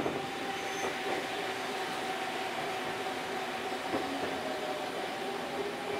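Eizan Electric Railway Deo 700 series electric railcar running, heard from inside the car: an even rumble of wheels on rail with a steady hum that holds one pitch.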